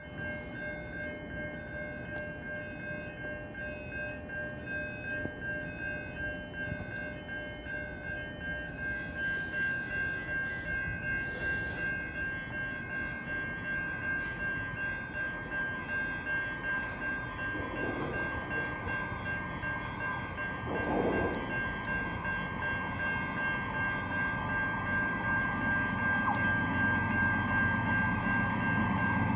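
Train running on the rails, its sound slowly growing louder, with a steady high-pitched whine over it.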